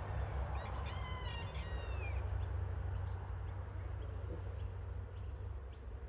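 A bird calling: a quick run of short, falling notes about a second in, over a steady low rumble.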